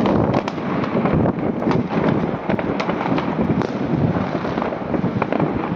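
Fireworks and firecrackers going off on all sides: a dense crackle of overlapping bangs, with no break.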